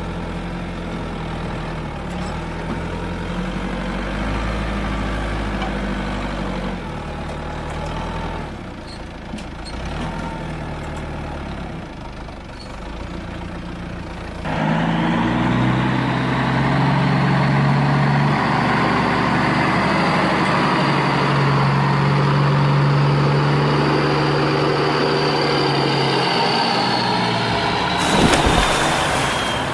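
Heavy truck engine running at idle, then stepping up to a louder, higher-revving run about halfway through, with a short hiss near the end.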